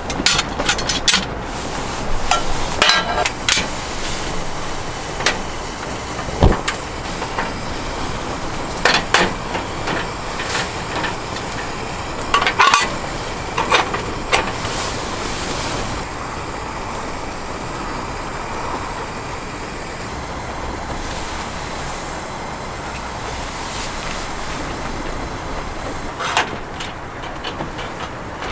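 Knocks and clinks of camp cookware being handled, frequent for about the first half and then only now and then, over a steady hiss.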